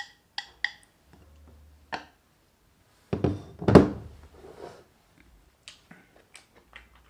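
Tableware handled at a meal: a dull thunk about three and a half seconds in, with a few light taps and clicks around it. A few ringing chime-like notes sound at the very start.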